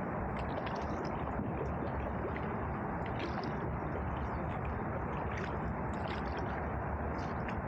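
Water gurgling and dripping around a canoe under paddle, with small splashes about once a second over a steady low rumble.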